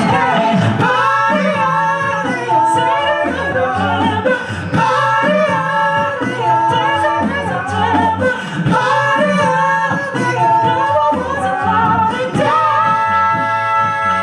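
All-male a cappella group singing a pop song in close harmony over a sung bass line. About twelve and a half seconds in, the voices hold a long chord.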